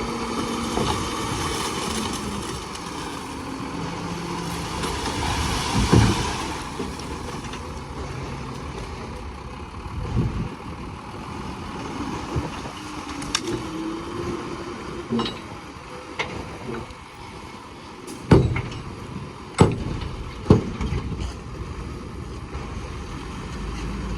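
Diesel engines of heavy construction machines running, with sharp metallic clanks now and then, the loudest three coming close together near the end.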